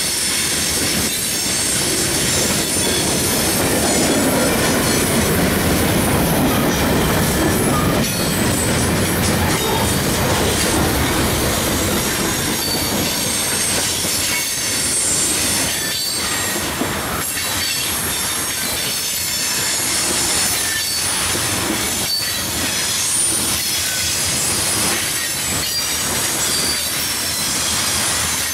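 Freight train of hopper cars and tank cars rolling past close by: steady wheel-on-rail rumble with repeated clacks and knocks, and a thin high wheel squeal on the curved track now and then.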